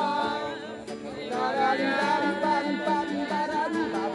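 People singing a song together with guitar accompaniment.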